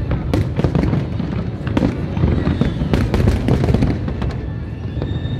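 Aerial fireworks bursting in quick succession: many sharp bangs and crackles over a continuous low rumble of booms.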